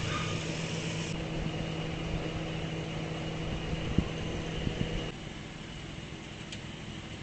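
Steady mechanical hum of an idling car, with a single click about four seconds in. The hum cuts out about five seconds in, leaving a fainter hiss.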